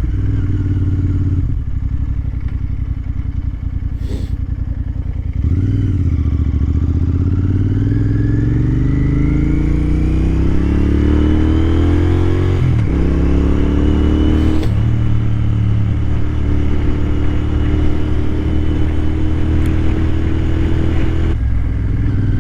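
Royal Enfield Continental GT 650 motorcycle engine under way. It runs softly at first, then about five seconds in pulls hard with a steadily rising note. Two gear changes come about halfway through, each dropping the pitch, and then it settles into a steady cruise.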